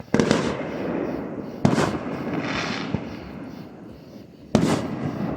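Fireworks going off: three sharp booms about a second and a half to three seconds apart, each followed by a long rolling echo. A crackling hiss follows the second boom.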